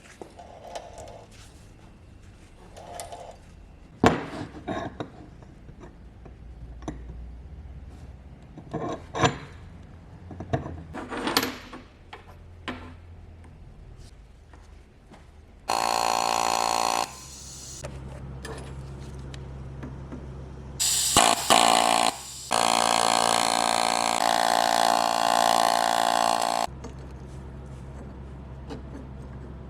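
Scattered knocks and clicks of parts being handled, then a power tool's motor whining steadily in three bursts that start and stop abruptly, the longest about four seconds.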